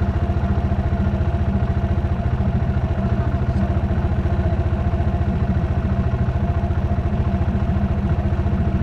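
Dirt bike engine running at a steady speed, its rapid, even firing pulses holding one pitch.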